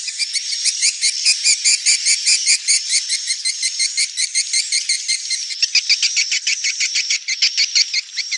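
Swiftlet twittering of the 'netral' lure kind played to attract nesting swiftlets: a dense, steady train of short, high chirps, several a second.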